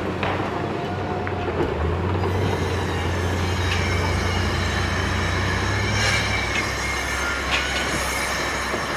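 Heavy vehicle or machinery running with a steady low rumble, joined about two and a half seconds in by a thin high-pitched metallic squeal, with a few sharp clicks.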